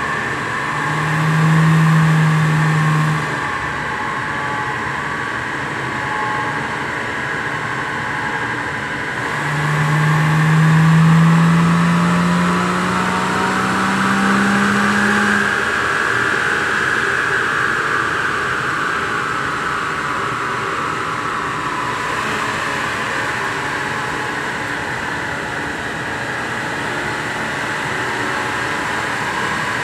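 Rover 2300's straight-six engine running on a rolling road. Its note swells briefly about a second in, then climbs steadily for about five seconds from around ten seconds in before easing back to a steady run.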